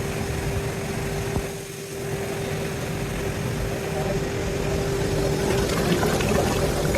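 Heavy machinery running steadily with a constant hum, dipping briefly about a second and a half in.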